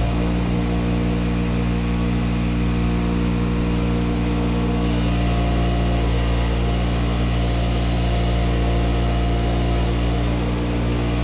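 Electric wire wheel running steadily, its motor humming. From about five seconds in until near the end, a steel bolt is held against the spinning wire brush, adding a steady brushing hiss as rust is scrubbed from the bolt's threads.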